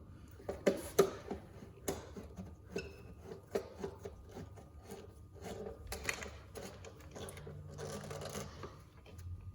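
Handling noises: irregular clicks and knocks with rubbing and scraping in between, as a scooter battery and its rubber-band strapping are shifted about on the scooter.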